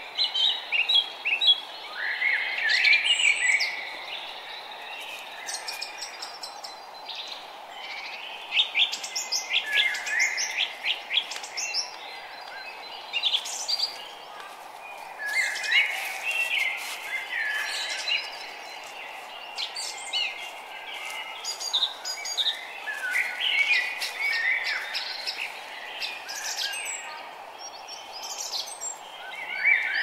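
Songbirds singing, with short phrases of quick chirps and trills repeated every few seconds, over a steady low background rush.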